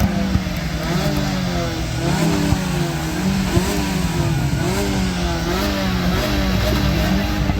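A car engine being revved over and over, its pitch rising and falling again and again.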